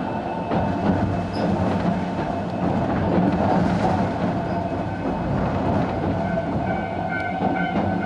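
Sangi Railway 270-series narrow-gauge (762 mm) electric train running at speed, heard from inside the car: a steady rumble of wheels and running gear with scattered clicks. Faint steady tones come in near the end.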